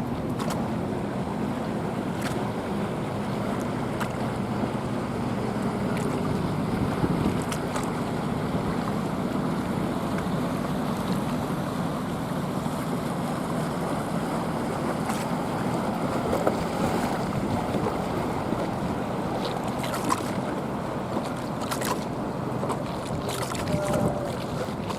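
Motorboat engine running steadily as a boat passes, with water lapping at the waterside. A few light clicks near the end.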